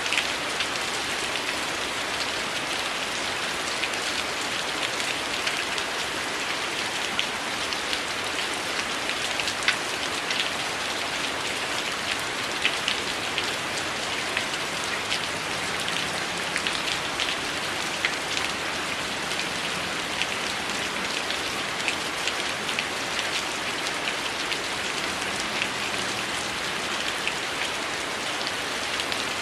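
Heavy rain falling steadily, a dense even hiss with many small sharp ticks and pops scattered through it.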